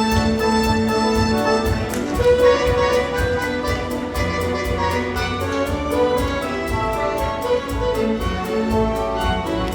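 Orchestra playing an instrumental passage, with bowed strings carrying long held notes over a steady rhythmic low end.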